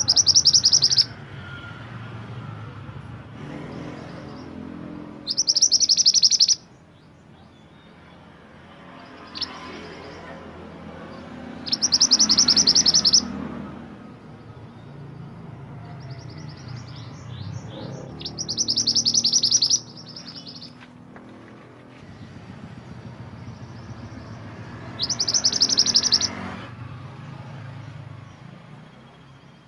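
Mantenan gunung songbird singing: five loud, high, rapid trilled phrases of about a second each, repeated every six or seven seconds, with fainter calls between them over a low steady background noise.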